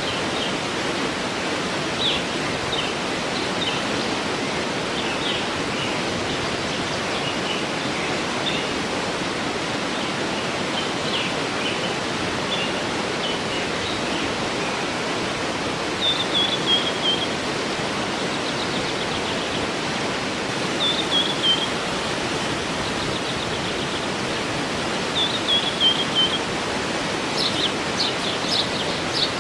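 Waterfall rushing steadily, with small birds chirping over it. A short song phrase of falling notes comes three times in the second half, and a quick run of high notes comes near the end.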